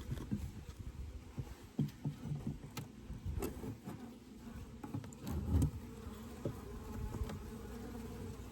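Honeybees buzzing around an open hive, a steady low hum, with scattered light knocks from handling the hive and a dull thump about five seconds in.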